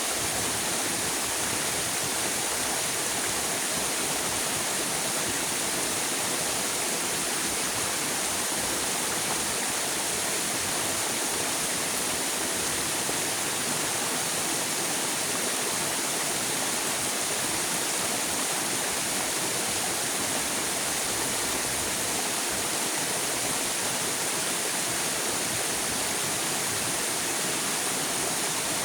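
River water rushing steadily, a constant even hiss with no breaks or changes.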